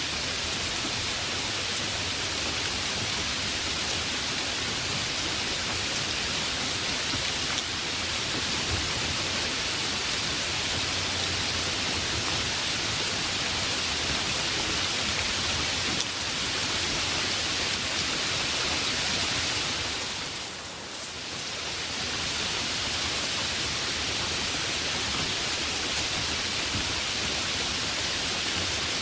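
Heavy rain falling steadily as an even hiss, dipping briefly in level about two-thirds of the way through before returning to full strength.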